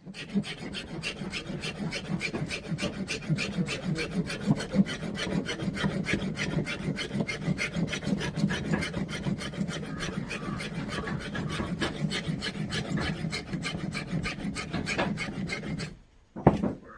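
Rapid, rhythmic rasping strokes, about four to five a second, of material being rubbed or ground by hand against a rough surface to make a coloured powder. They stop suddenly near the end, followed by a short knock.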